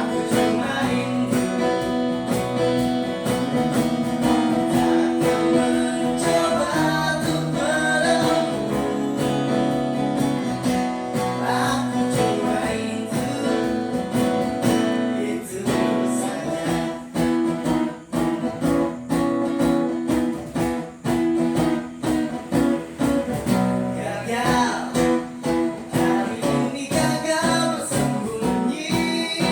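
Music: an acoustic guitar strummed steadily while a singer's voice carries the melody, an acoustic cover of an Indonesian pop song.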